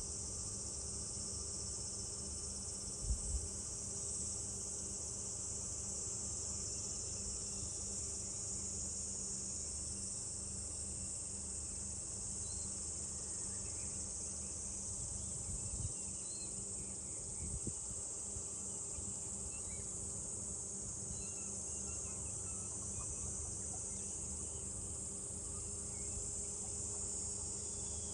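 Cicadas droning in a steady, high-pitched summer chorus, with faint bird chirps here and there and a few brief low thumps.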